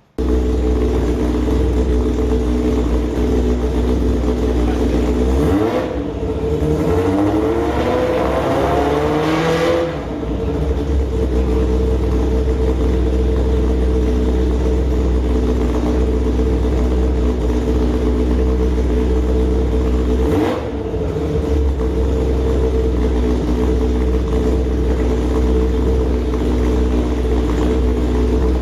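Kawasaki ZZR1100 inline-four race engine running steadily on a dyno during break-in of its new forged pistons and rings. About six seconds in, the revs climb for roughly four seconds, then drop back to a steady run, with one brief dip later on.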